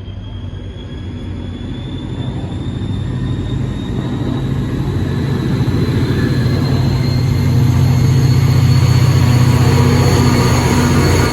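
New Jersey Transit Atlantic City Line train with a diesel locomotive, its engine running with a low hum under a whine that rises steadily in pitch and grows louder: a train picking up speed as it moves past.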